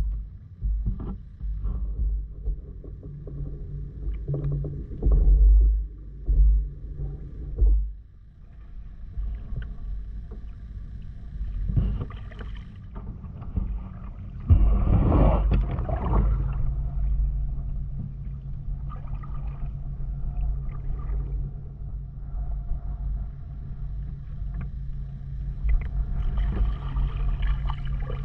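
Kayak paddling: paddle strokes splashing in the water and knocking on the hull, with wind rumbling on the microphone in the first part. About halfway through a steady low hum comes in and holds to the end.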